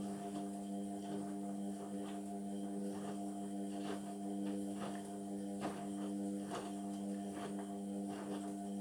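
Indesit washing machine's motor turning the drum during a synthetics wash: a steady hum with scattered clicks and knocks from the tumbling load.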